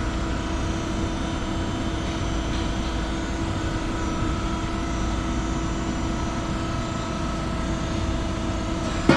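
Steady machine drone: a low rumble with a constant hum over it, unchanging throughout.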